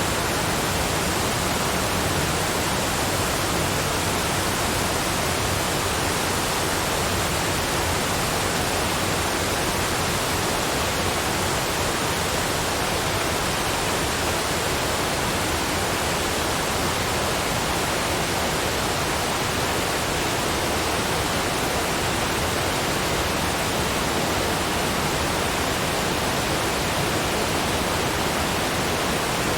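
Waterfall's steady, even rushing noise that does not change, with no separate splashes or other events.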